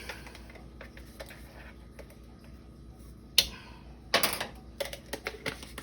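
Light clicks and taps of measuring spoons and seasoning containers being handled, with a sharper click about three and a half seconds in and a quick run of taps near the end.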